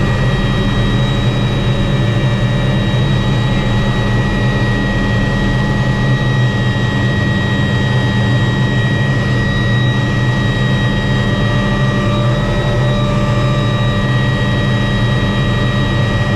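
MD 500 helicopter's Allison 250 turboshaft turbine and rotor running steadily, heard from on board: a constant high turbine whine over a heavy low drone.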